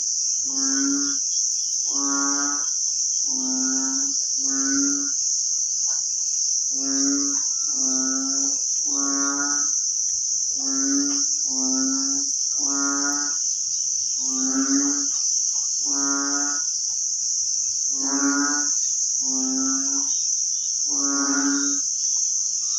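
Repeated short, low animal calls, each about half a second long and coming roughly once a second at uneven spacing, over a steady high-pitched insect chorus.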